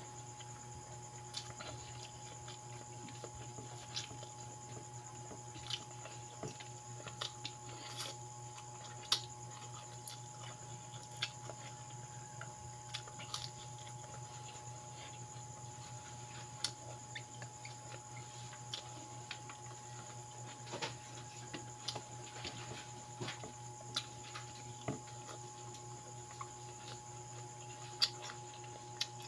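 Close-up eating sounds of a person chewing pansit noodles and crisp fried dried fish (daing): irregular wet smacks and small crunchy clicks, one or two a second, over a steady low hum.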